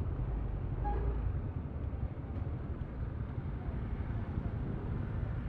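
Yamaha Aerox V3's 155 cc single-cylinder scooter engine running steadily under way, with a low, even drone mixed with wind noise.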